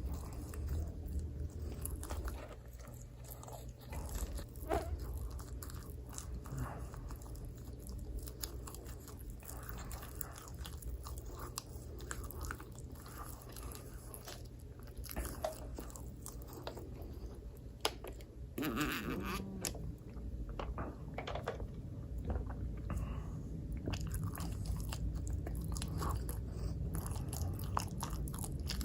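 Close-up sounds of a person chewing and biting microwaved pizza: many small sharp mouth clicks over a low steady hum, with a busier stretch of chewing about two-thirds of the way through.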